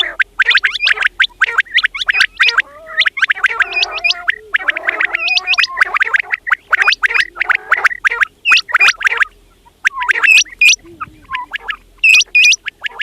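Quails calling: a dense, rapid chattering of short calls from several birds, thinning out after about eight seconds into groups of two or three sharp, clear calls with short gaps between.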